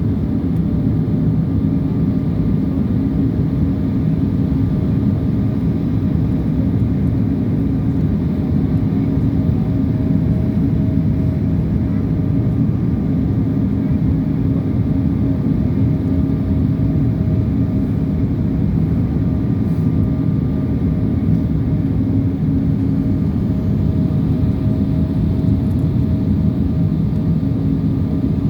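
Steady cabin noise of an airliner in flight: a constant low rumble of engines and rushing air, with a faint steady hum above it.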